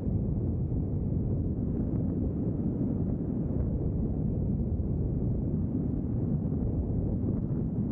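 Steady low rumble of a vehicle driving along a road: road and wind noise, even throughout.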